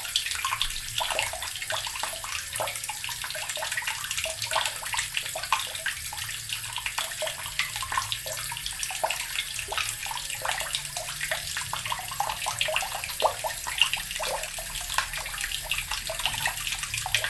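Water running steadily from a tap and splashing into a basin below.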